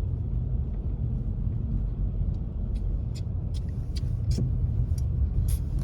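Car cabin rumble of the engine and tyres on snowy road while driving. In the second half, a fast, regular ticking, about two or three ticks a second.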